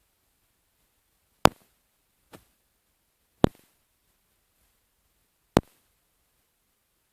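Four sharp clicks against near silence, three loud and one fainter, a second or two apart.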